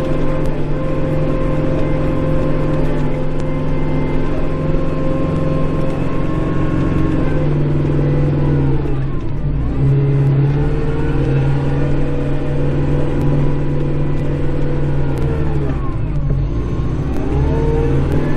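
Kubota Grand L5740 tractor's diesel engine running steadily, heard from inside the cab, its pitch dipping briefly and recovering twice, about halfway through and again near the end.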